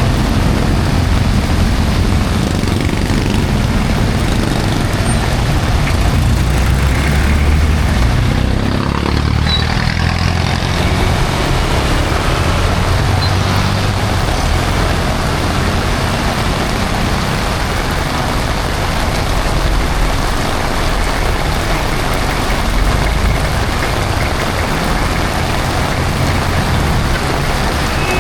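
Heavy rain falling steadily, mixed with the low rumble of road traffic and the engines of passing trucks or buses.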